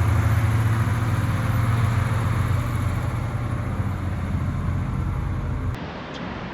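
A motor vehicle's engine running as a steady low rumble with a fine pulsing texture. It stops abruptly near the end, leaving a quieter street background.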